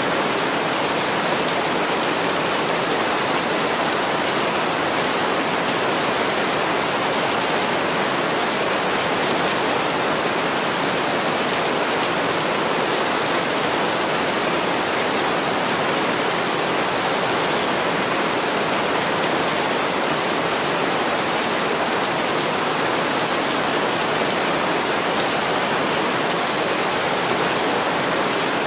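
Steady heavy rain pouring on window glass, an even unbroken hiss that neither rises nor falls.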